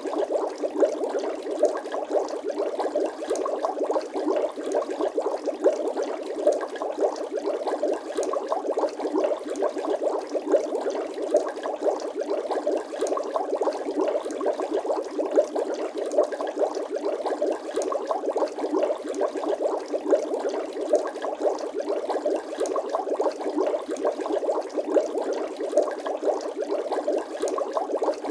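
Bubbling water sound effect: a steady, dense stream of small bubbles gurgling, with many quick little pops and no breaks.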